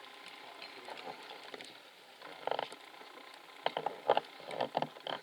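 Wood fire in a folding fire pit crackling, with a run of sharp pops and snaps clustering in the second half over a low steady hiss.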